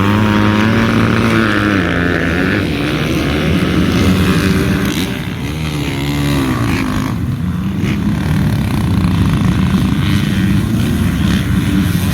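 A pack of motocross dirt bikes running hard together: the engines rise in pitch in the first couple of seconds, fall back, sweep up and down again several times near the middle, then blend into a dense, rough engine noise.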